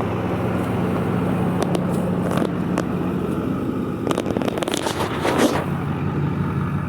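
A vehicle engine running steadily, with scattered clicks and scrapes over it.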